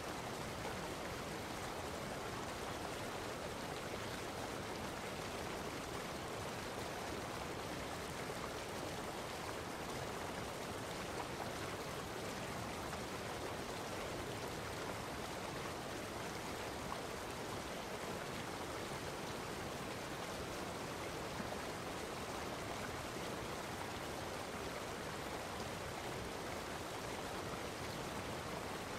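Steady rushing water noise, constant and unbroken.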